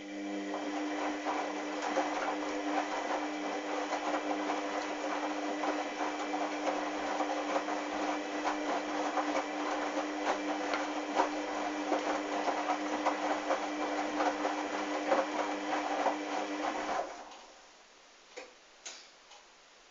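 Hoover washing machine running during a towel wash: a steady motor whine with a constant rattle and clicking, cutting off suddenly about 17 seconds in, then a few faint clicks.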